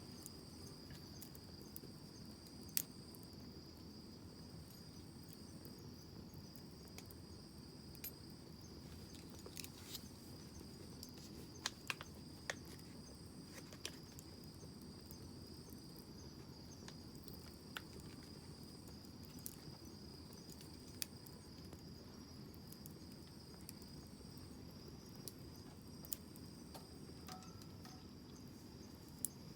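Wood campfire crackling faintly, with scattered sharp pops at irregular intervals over a low steady rush, and a continuous high insect trill, like crickets, throughout.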